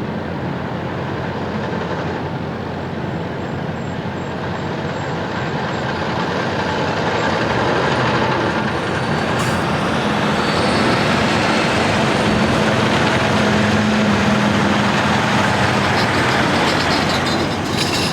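Big-rig semi truck's diesel engine running as the truck drives past, growing louder about halfway through and staying loud.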